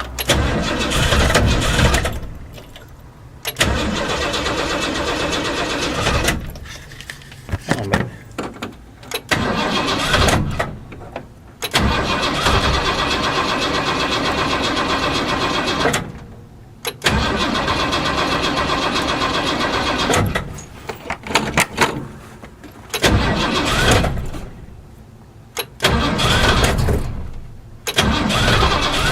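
1978 Ford Bronco's V8 engine being cranked again and again on a cold start after sitting for months. It catches and runs for a few seconds at a time, then dies or stops, roughly seven times, as it struggles to fire.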